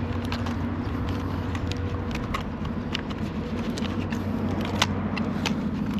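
A car engine idling, a steady low hum, with scattered light clicks over it.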